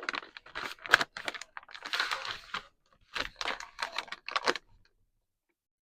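A plastic vacuum-sealer bag being handled, with crinkling rustles and irregular light clicks and taps for about four and a half seconds.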